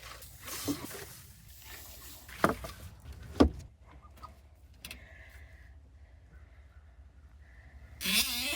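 A few sharp knocks and thumps from handling work in a chicken coop, the loudest about three and a half seconds in, then a quieter stretch with faint thin tones, and a loud rustling burst with a voice-like sound near the end.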